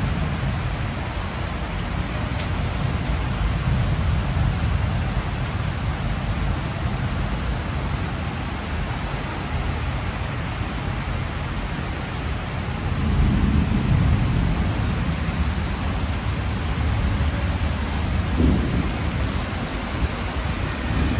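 Heavy rain pouring steadily onto corrugated metal roofs, with a low rumble of thunder swelling about two-thirds of the way through.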